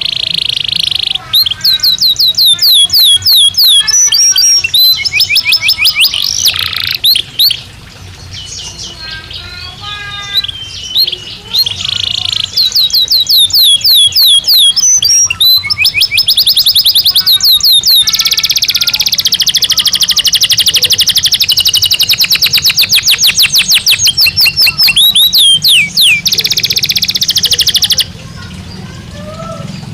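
Belgian canary singing a continuous song of rapid trills and quickly repeated down-sweeping notes. In the second half it holds one long, very fast rolling trill that stops a couple of seconds before the end. A steady low hum runs underneath.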